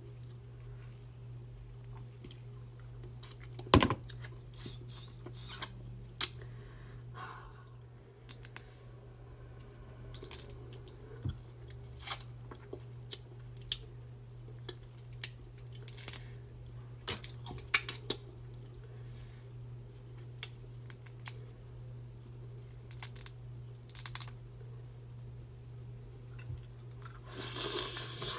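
Close-miked eating of a seafood boil: chewing with sharp cracks and crunches scattered through, over a steady low hum. Near the end comes a louder stretch of crackling and rustling.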